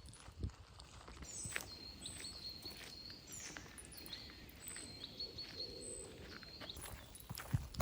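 Woodland birdsong: a small bird repeats high, thin phrases, each sliding down into a held high note, several times in a row. Faint footsteps and rustles on a path sit underneath.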